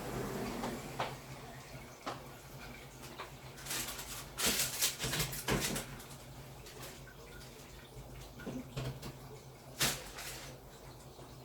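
Samsung Wobble 14 kg top-loading washing machine washing a quilted comforter: water sloshing and splashing in the tub over a steady low motor hum, with a few louder surges of splashing.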